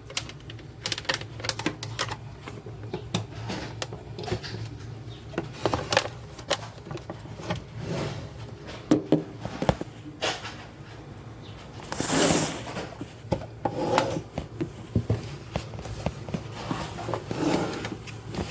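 Irregular clicks and knocks of kitchen utensils and containers being handled during juice preparation. A brief rushing, scraping burst comes about twelve seconds in.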